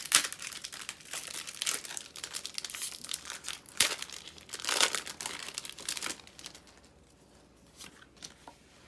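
Foil wrapper of a Pokémon trading card booster pack crinkling and tearing as it is opened, in dense crackles that stop about six seconds in, leaving only a few soft clicks.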